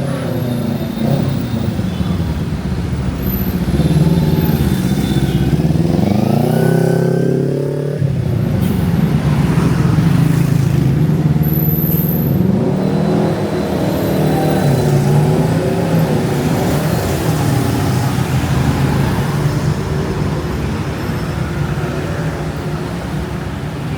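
Close street traffic: motor vehicle engines running nearby, one accelerating with a rising engine pitch that breaks off suddenly about eight seconds in, then more engines running and passing.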